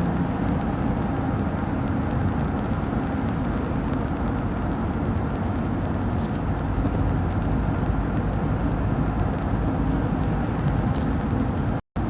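Steady rumbling and rushing vehicle road noise with no distinct engine note. It cuts out abruptly for a split second near the end.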